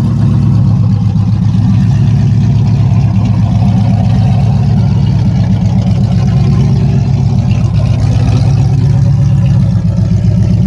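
Dodge Ram mud truck's engine idling, a loud, steady low rumble.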